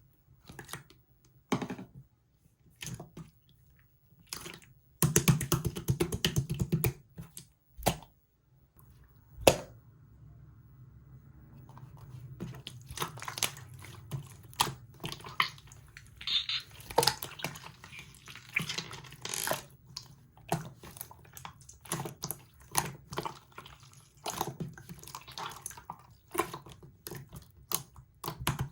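Clear slime being played with by hand: scattered sticky clicks and pops, a fast run of crackling pops about five to seven seconds in, then steady squishing and popping.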